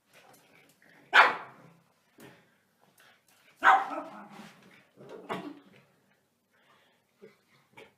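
A dog barking: three loud barks, about a second, three and a half seconds and five seconds in, with fainter sounds between them.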